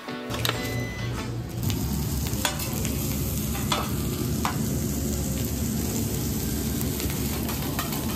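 Food frying and sizzling steadily in a restaurant kitchen over a low hum, with a few sharp metal clicks of a cooking utensil.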